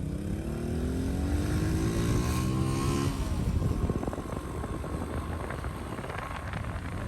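Car engine revving up as the vehicle accelerates, its pitch rising steadily for about three seconds, then giving way to rougher road noise with rattles.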